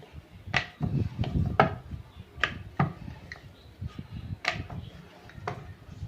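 Wooden rolling pin rolling chapati-style dough thin on a board: a low rolling rumble with irregular sharp wooden knocks, about seven in all.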